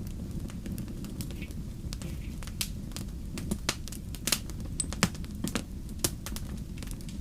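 Wood fire crackling: sharp irregular pops and snaps from burning logs over a steady low rumble of flame.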